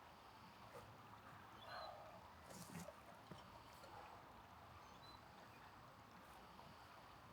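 Near silence: faint outdoor ambience with an even hiss, a short faint high chirp about every three seconds, and a few soft clicks near the middle.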